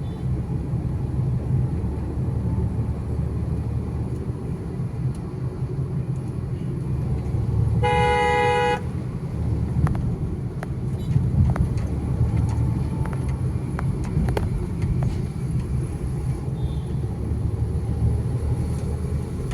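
Steady low rumble of road traffic, with a vehicle horn sounding once for just under a second about eight seconds in.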